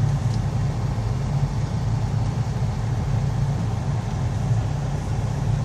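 Truck engine running steadily, heard from inside the cab as a low, even hum.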